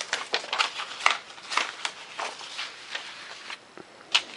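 Paper plans being handled on a workbench: irregular rustles, crinkles and light taps, with a sharper one about a second in and another near the end.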